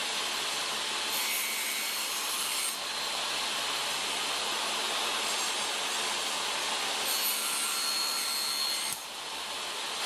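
Table saw running steadily, its sound brightening twice, about a second in and again near the end, as the blade cuts through wood.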